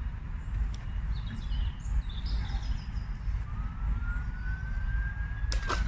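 A distant siren wailing, one slow rise in pitch over the second half that turns to fall near the end, over a steady low rumble on the microphone. A few bird chirps come in the first half, and there is a sharp click near the end.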